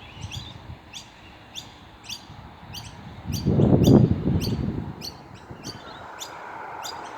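Baby birds chirping over and over, about two short high chirps a second: young birds begging to be fed. A brief low rumble about three and a half seconds in is the loudest thing.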